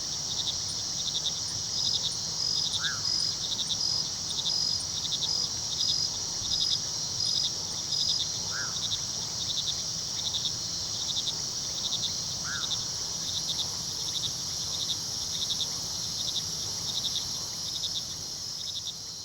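Night chorus of crickets: a steady high trill under regular, evenly repeating pulsed chirps. Three short, lower single calls stand out, a few seconds apart.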